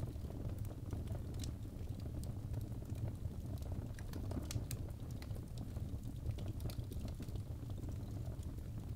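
Birchwood logs burning in a fireplace: a steady low rumble of flames with sharp, irregular crackles and pops, several a second.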